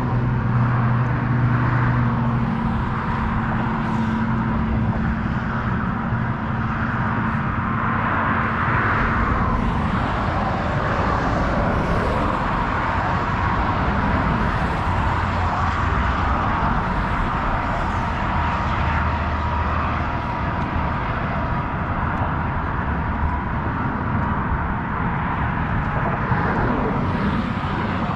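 Steady engine noise of motor traffic or aircraft, with a low engine drone that fades after about two and a half seconds.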